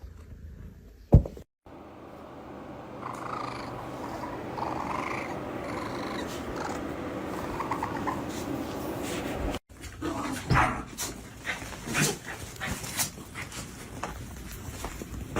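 Domestic cat purring steadily for several seconds, with a sharp knock about a second in and scattered clicks and knocks in the last few seconds.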